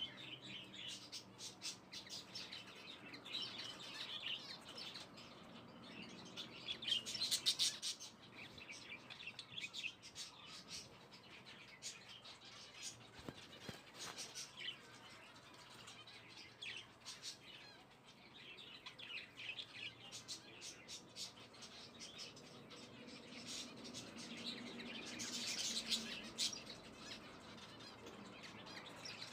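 Small birds chirping repeatedly, with busier bursts of chirping about seven seconds in and again near the end.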